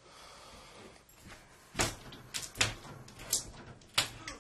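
A door being worked open: a series of sharp clicks and knocks from the latch and frame, starting about two seconds in.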